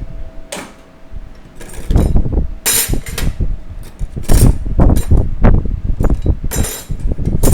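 Steel clutch plates and friction discs from a 4L60E transmission's clutch pack clinking and clattering against each other as they are handled and pulled out: a quick run of irregular metallic knocks and clinks, busiest in the second half.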